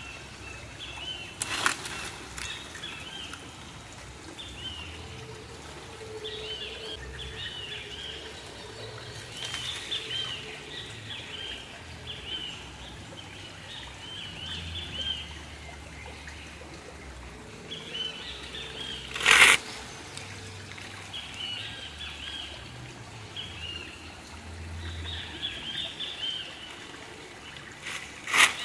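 Birds chirping over and over in short high calls above a faint trickle of creek water. A single sharp crack about 19 seconds in is the loudest sound, with a few lighter clicks.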